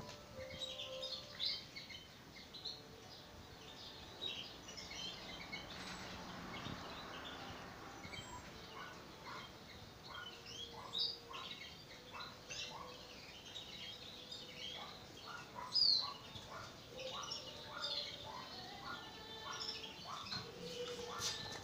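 Birds chirping: many short, high calls overlapping throughout, with a run of lower repeated notes through the middle and one louder chirp about three-quarters of the way through.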